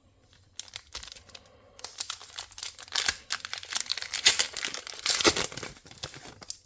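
Foil booster-pack wrapper crinkling and being torn open by hand: a dense run of crackling that starts about half a second in and is loudest in the middle.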